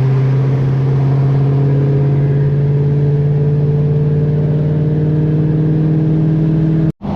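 Car engine held at steady high revs for about seven seconds, its pitch creeping slightly upward, then cut off abruptly near the end.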